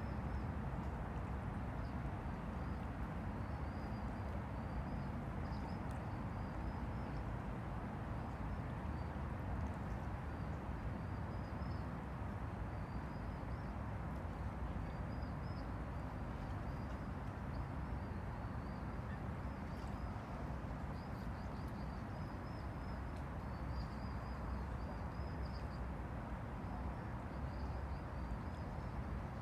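River water lapping steadily against the bank, a low, even wash, with small birds chirping high and repeatedly throughout.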